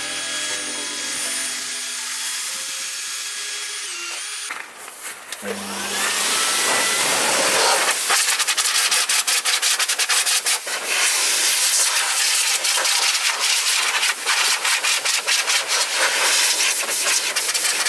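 Background music for the first few seconds. Then, from about six seconds in, sandpaper scrubs back and forth on a plastic headlight lens in rapid, steady strokes.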